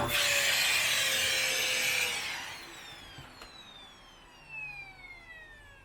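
Vacuum cleaner running on a cat-hair-covered blanket, then switched off about two seconds in, its motor whine falling steadily in pitch as it winds down. A single click a little after.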